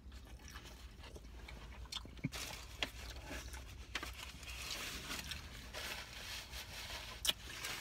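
A person chewing a mouthful of hot dog in a bun with lettuce and onion: faint mouth sounds with a few small clicks. A paper napkin rustles in the second half as the mouth is wiped.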